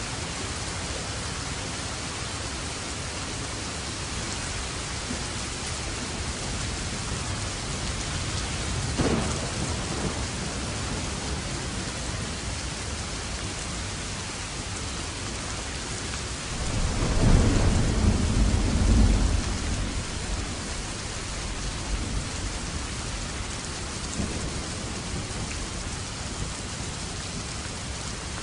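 Steady rain with thunder: a short, sharp crack about a third of the way in, then a louder, longer low rumble of thunder a little past the middle.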